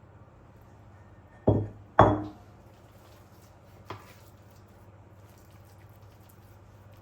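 Kitchenware clinking: two sharp clinks with a short ring, half a second apart, then a fainter one about two seconds later.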